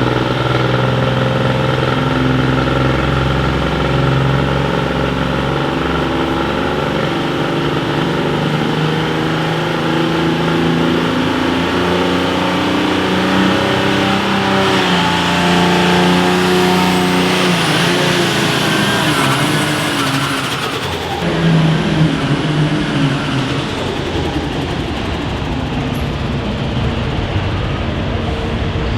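Pull vehicle's engine running hard at high revs under load while pulling a weight sled. Its pitch holds steady, wavers through the middle, then drops and changes abruptly about two-thirds of the way through.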